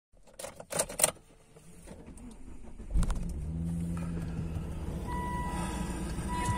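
A few clicks and clatter inside a car, then the engine cranks and starts about three seconds in, flaring briefly and settling into a steady idle. A steady high beep sounds from about five seconds in.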